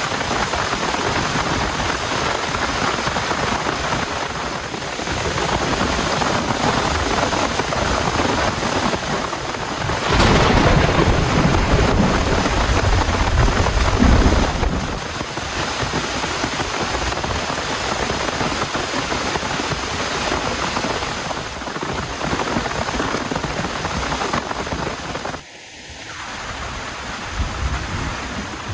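Heavy rain falling steadily, with a low rumble of thunder from about ten to fourteen seconds in.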